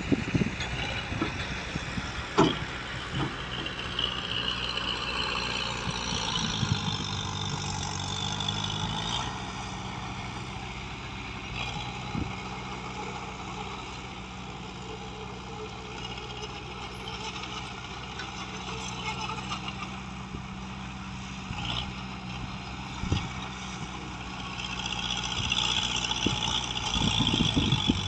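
Heavy construction machine's diesel engine running steadily, its note growing stronger twice as it works under load, with a high hiss that comes and goes and a few sharp knocks.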